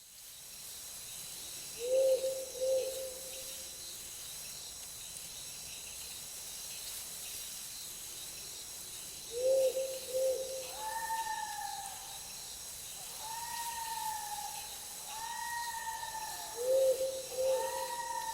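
Night forest ambience: steady insect chirring, with a low two-note call heard three times about seven seconds apart. From about halfway a higher, slightly falling call joins, repeating every couple of seconds.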